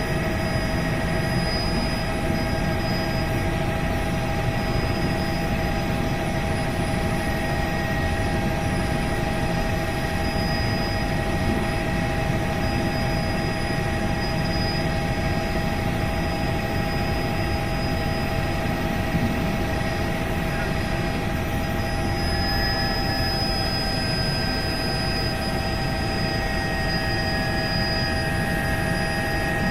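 Helicopter running steadily: a dense low rotor beat with several steady whining tones above it, unchanging throughout.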